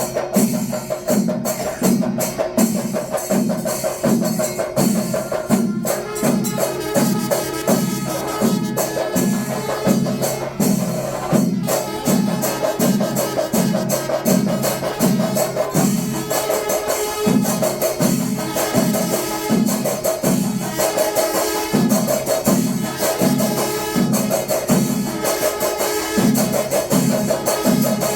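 Kerala chenda melam percussion ensemble playing: drums beat a steady pulse of about one and a half strokes a second under continuous cymbal clatter, with a held note running above them.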